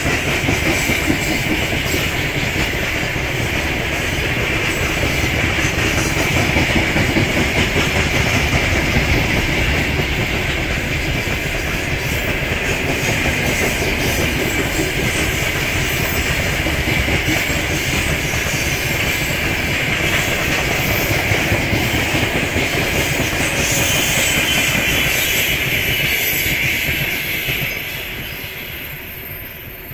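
A freight train of open gondola wagons rolling past on the rails, a steady rumble of wheels with a high hiss over it. It fades about 27 seconds in as the last wagons move away.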